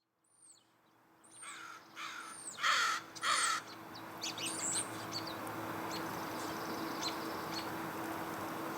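A bird caws four times in quick succession, with smaller birds chirping. Then the steady hiss of water from a big gun irrigation sprinkler rises and holds.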